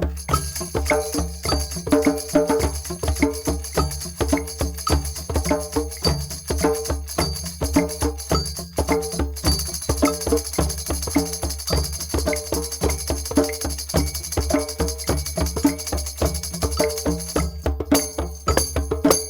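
Group drum session: several drums and hand percussion playing a fast, steady rhythm together, with jingling and sharp wooden clicks among the drum strokes.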